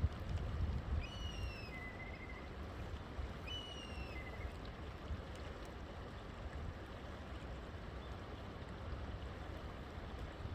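Steady rush of a flowing river, with a bird calling twice in the first half: each call a short falling whistle followed by a brief lower trill.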